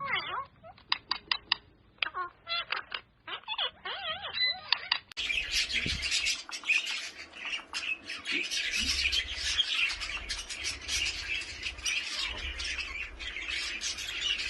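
Pet parrots chirping and squawking: first a run of sharp clicks and bending chirps, then, about five seconds in, a dense, continuous chatter of many high calls and rapid clicks.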